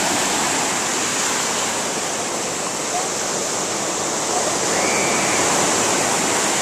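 Ocean surf washing on the beach, a steady rushing noise.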